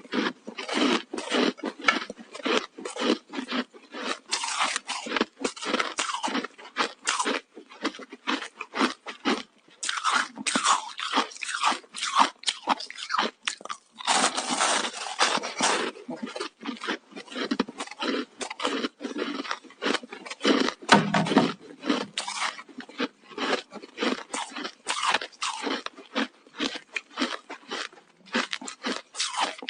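Frozen ice sticks crunching as they are bitten and chewed, close up: many rapid, sharp crunches with a few brief pauses.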